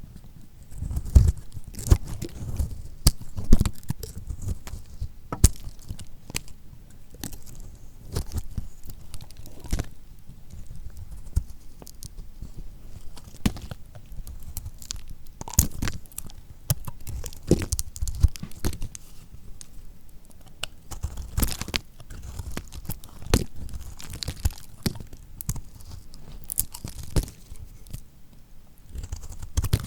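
A knife cutting through lacquered soap: an irregular run of crisp crunches and crackles, some with a heavier, duller thud.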